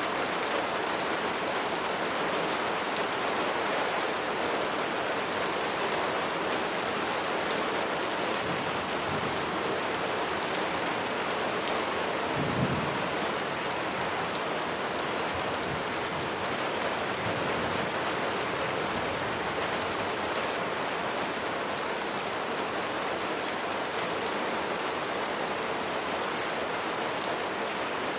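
Steady rain falling, with fine ticks of individual drops throughout. About halfway through comes a brief low thump, the loudest moment.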